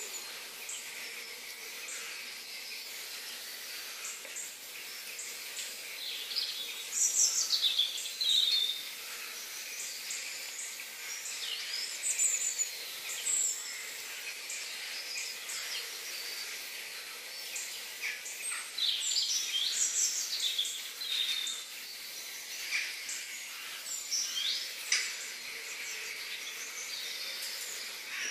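Birds chirping and calling in scattered bursts, with quick sweeping notes, over a steady high hiss of outdoor background noise.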